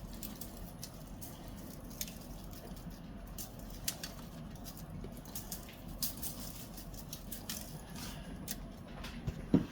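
Faint, scattered light taps and clicks from handling the seasoned chuck roast in its pan, over a low steady hum.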